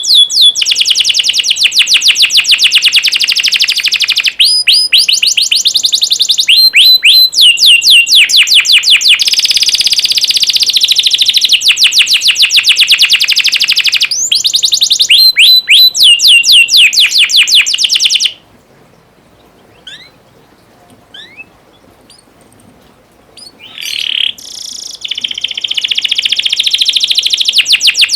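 Domestic canary singing: loud, fast rolling trills and rapid runs of repeated notes. About two-thirds of the way through the song breaks off, leaving a few faint chirps, then the trilling starts again near the end.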